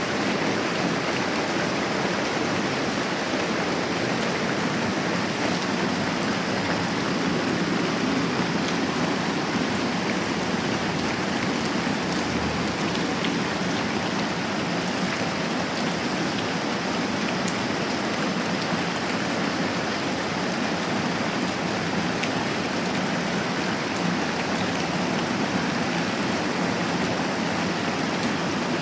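Moderate rain falling steadily, an even hiss that does not change.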